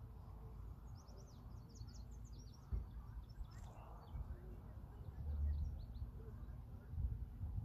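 Small birds chirping in quick runs of short, high, falling calls, over a low rumble.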